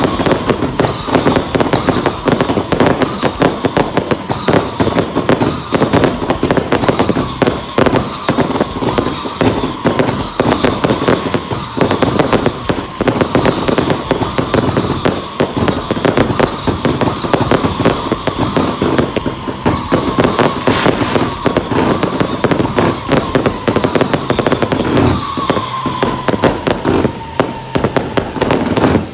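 A firework barrage firing continuously: a dense, rapid run of bangs and crackles, with a high whistle that repeatedly falls slightly in pitch.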